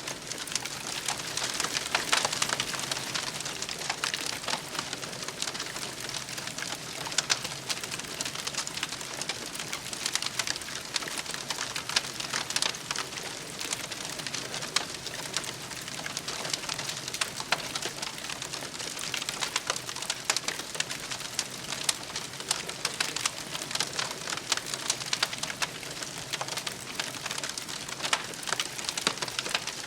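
Wood campfire crackling, dense small crackles over a steady hiss, with a few louder pops scattered through.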